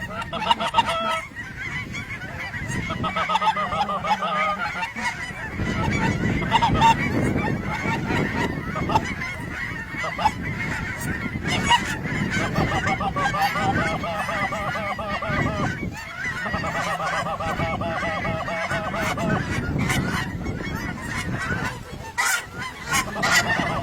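Geese honking: runs of rapid, overlapping honks and clucks that come and go in waves over a steady background.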